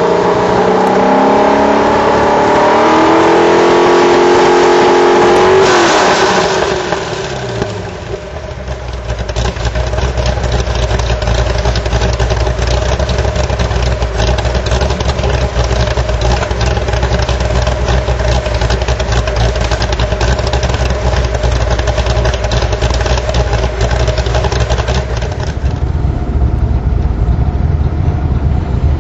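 1985 Corvette's 408 cubic inch V8 through a Corsa cat-back exhaust with high-flow cats, held at high revs with the pitch easing down, then falling back to idle about six seconds in. It idles steadily for the rest of the time.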